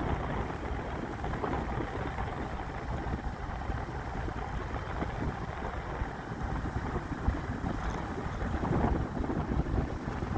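Wind buffeting the microphone: a steady low rumble with no clear tone.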